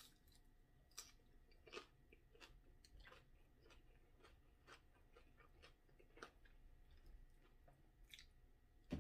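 Faint chewing of a mouthful of chicken nachos, with scattered soft crunches of tortilla chips.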